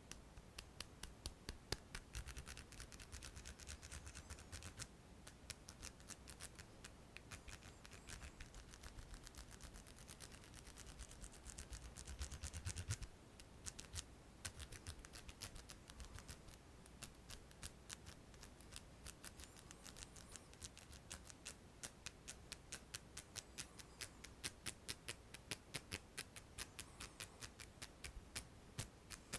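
Close-miked ASMR hand sounds: a steady run of crisp little clicks, about four a second, with a soft rubbing hiss under them through the first half that stops abruptly about halfway through.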